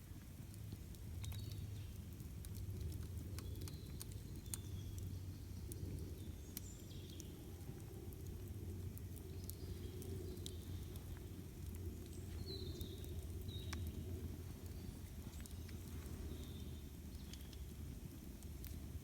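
A wood campfire burning, with irregular sharp crackles and pops over a low steady rumble. Short high bird chirps come now and then.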